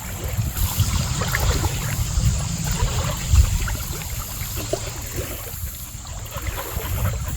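River water lapping and splashing at the shore over a steady low rumble, with a few small splashes scattered through.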